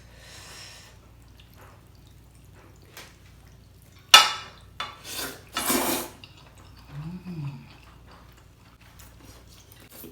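Eating noises at a bowl of sashimi: a few sharp, noisy slurps about four to six seconds in, with faint clinks of utensils against the bowl. A short hummed "mm" rises and falls near the end.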